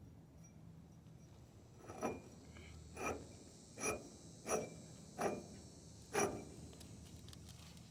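Six short scraping strokes of a hand tool, about one a second, with a pause between each.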